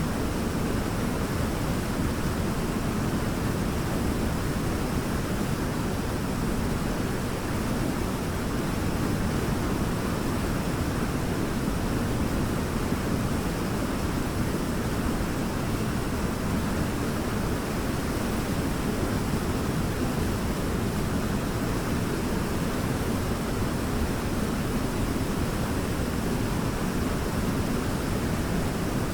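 Waterfall rushing: an even, steady roar of falling water with no breaks.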